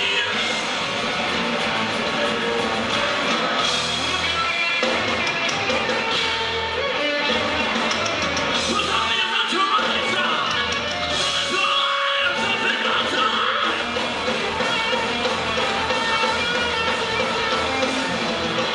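Live noise-rock band playing loud, with distorted guitar and yelled vocals.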